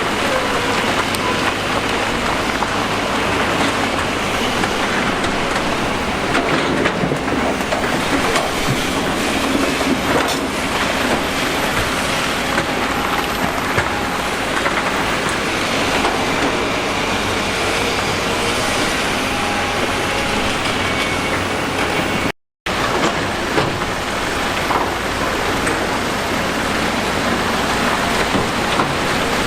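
Heavy construction machinery running: a loud, steady, dense rumble and rattle, broken by a split-second drop-out about two-thirds of the way through.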